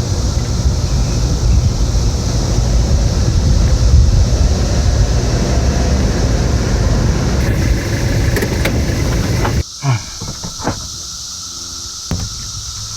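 A car driving, a loud steady rumble of road and engine noise, with a steady high drone of cicadas over it. The rumble cuts off suddenly about ten seconds in, leaving the cicada drone and a few short knocks.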